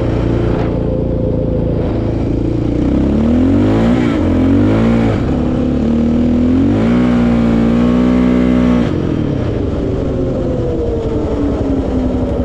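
Single-cylinder four-stroke ATV engine running under throttle. It revs up about three seconds in, eases back, then revs up again about seven seconds in and holds before dropping off just before nine seconds.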